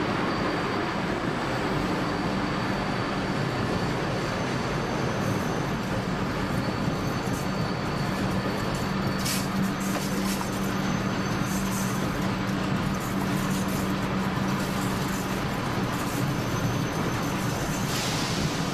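Electric train running on rails, heard from the driver's cab: a steady rumble of wheels on track with a low, even hum from the traction equipment. Thin high-pitched wheel squeals come and go as it takes curves.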